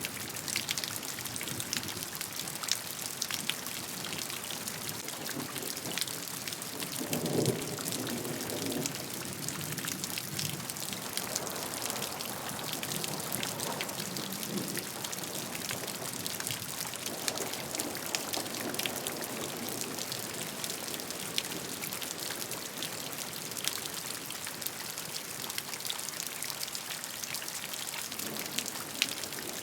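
Steady rain, many individual raindrops ticking on a surface over an even hiss. A few times, most clearly about seven seconds in, a lower, rougher sound rises under it.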